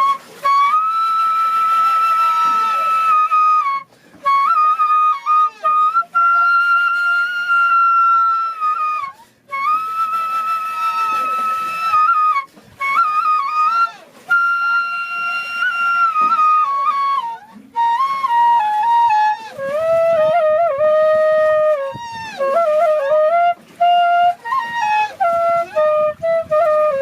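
A flute played solo: a slow melody of long held notes, with short breaks for breath.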